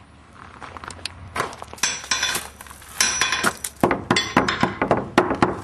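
Metal clinking and clattering: a quick, irregular run of light metallic strikes, each with a brief ring, starting about a second in.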